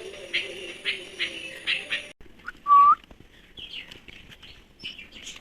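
Nestling birds chirping in rapid repeated calls, as begging chicks do. About two seconds in the sound changes abruptly, and a single loud, short rising whistled note follows, then more scattered chirps.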